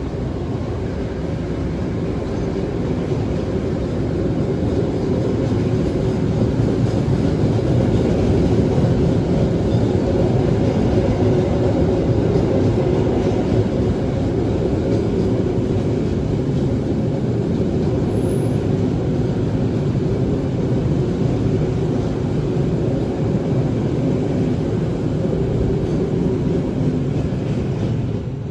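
A train running on the tracks: a steady low rumble that swells slightly during the first few seconds and then holds.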